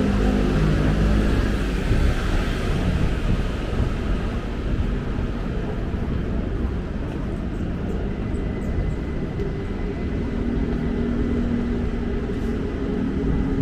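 Steady rumble of city traffic, with vehicle engines running. One engine note fades out in the first two seconds and another builds near the end.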